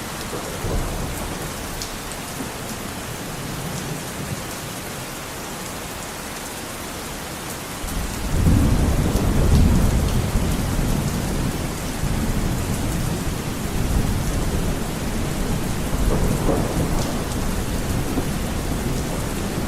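Heavy rain beating on a window glass, a steady hiss with scattered drop ticks. About eight seconds in, a low rumble of thunder swells and keeps rolling under the rain.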